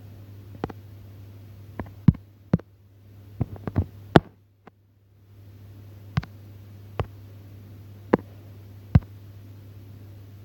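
Sharp taps or clicks, about a dozen at uneven intervals, over a steady low hum. Everything drops out for about a second midway, then the hum and taps resume.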